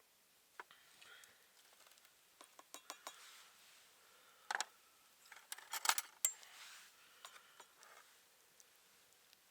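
Camp cookware and utensils clinking and clattering: a scatter of light clinks, with a louder cluster of clatter from about four and a half to six and a half seconds in.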